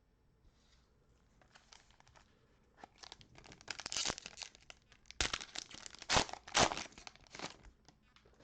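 Plastic trading-card pack wrapping being torn open and crinkled, quietly at first, then in a loud stretch of crackling and tearing for about four seconds that stops shortly before the end.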